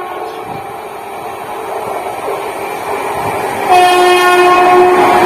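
A train approaching, its running noise growing steadily louder, then its horn sounding one loud, long, steady blast from a bit past halfway through to the end.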